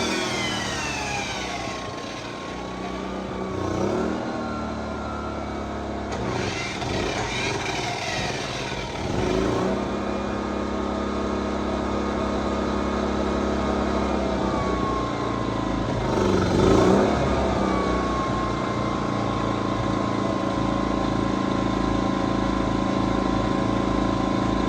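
Generac GP2200i inverter generator's small four-stroke engine running while a plugged-in compound miter saw is switched on several times. Each time the saw motor winds up and then coasts down in pitch, and the generator's engine changes speed under the load before settling into a steady run. In the owner's view, the miter saw draws more power than the generator can supply.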